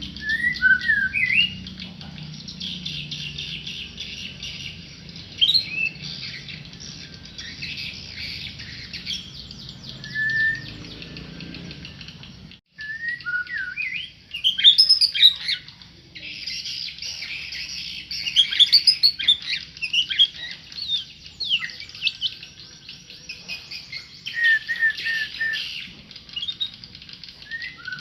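A tame murai (a Copsychus songbird) singing loud whistled phrases of quick rising and falling notes, in bursts, over a steady dense twittering. The sound drops out briefly about halfway through.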